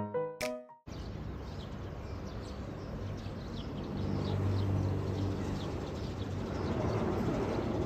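A few last musical notes cut off about a second in, giving way to outdoor trackside ambience with birds chirping. A low machine hum swells about three seconds in and fades again near six seconds.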